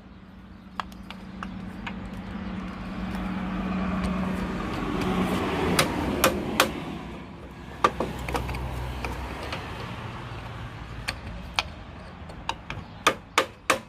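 Hammer striking a punch to drive out a push mower's wheel bearing: a few scattered metal knocks midway, then a quick run of blows, about two a second, near the end. Under it a steady low hum swells and fades, like a passing vehicle.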